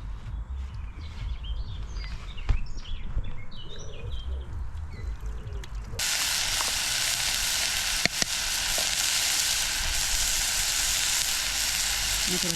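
A low rumble with faint high chirps, then an abrupt cut about six seconds in to a steady, loud sizzle of food frying in a pan on the camp stove.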